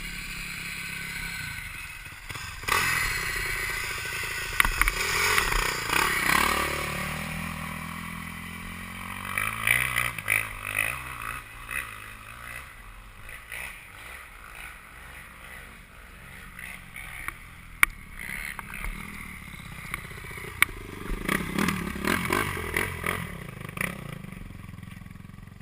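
Motocross motorcycles revving as they pass, the engine pitch rising and falling in several waves, with sharp clicks and clatter in between.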